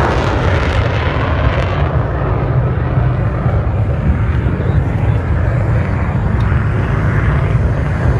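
Aircraft engine noise: a loud rush whose hiss fades over the first two seconds, leaving a steady low rumble.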